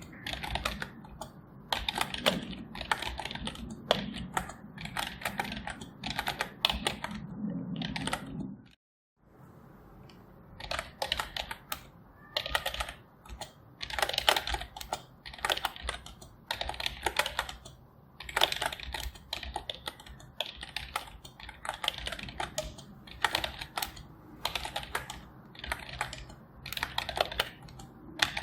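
Typing on a computer keyboard: quick runs of key clicks broken by short pauses. About a third of the way in the sound cuts out completely for a moment, then the typing resumes.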